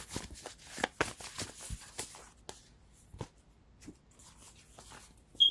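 A deck of tarot cards being shuffled and handled, with a run of quick card clicks and rustles that thin out about halfway through. A brief high chirp just before the end is the loudest sound.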